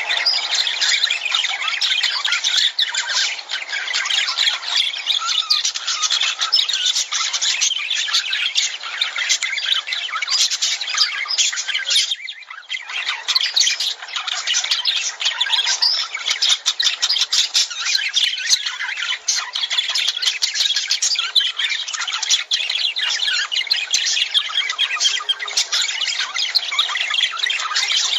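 Lovebirds chattering and squawking, many shrill calls overlapping without a break except for a brief lull about twelve seconds in.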